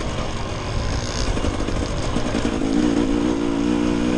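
Dirt bike engine running, with a clear, steady engine note rising out of the mix about halfway through.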